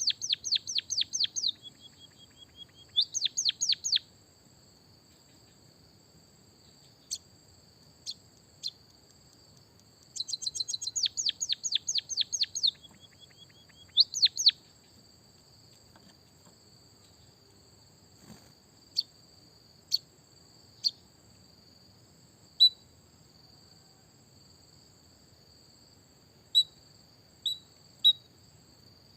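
Small songbird chirping in fast trills of sharp, falling chirps, about ten a second, in several bursts during the first half, then only scattered single chirps. A steady high-pitched whine runs underneath throughout.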